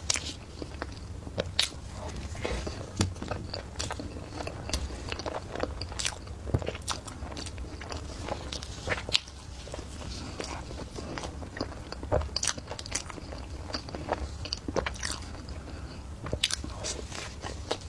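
Close-miked eating: biting and chewing, with irregular wet clicks and crunches, several a second, over a faint steady low hum.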